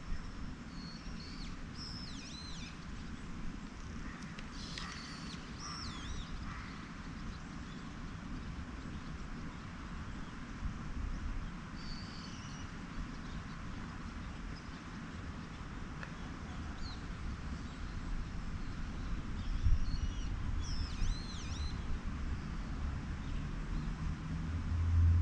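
Small birds chirping in short clusters now and then over a steady low rumble. Near the end come gulps of someone drinking from a can.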